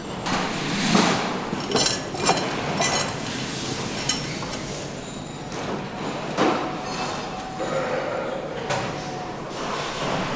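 Engine assembly-line noise: repeated metallic clinks and knocks of parts and tools over a steady machinery hum, with a brief whine of a machine near the end.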